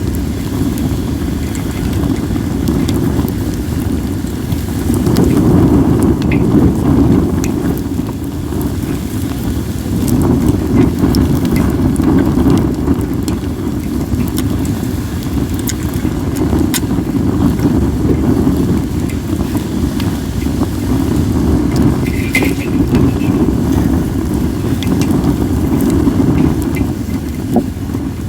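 Wood fire of acacia and mixed firewood crackling, with scattered sharp pops, under a loud low rumble of wind buffeting the microphone that swells and eases every few seconds.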